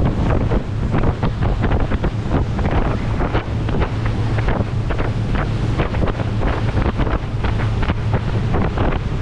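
Motor boat running under way: a steady low engine drone under heavy wind buffeting on the microphone, with irregular rushes and splashes of water against the hull.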